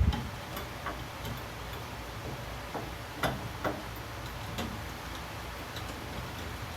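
Harbor Breeze Vector Elite ceiling fan running with a steady low hum, with several light clicks at irregular intervals, the loudest right at the start.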